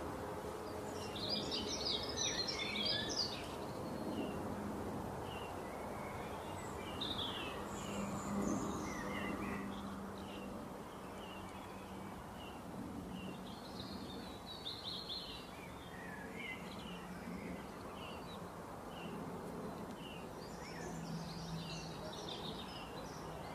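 Birds chirping in scattered short bursts over a steady hiss and a low, steady hum.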